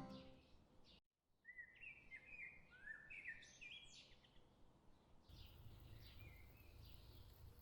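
Faint outdoor bird chirping: a quick run of short chirps, then a single chirp near the end, over a faint low rumble that comes in about halfway through.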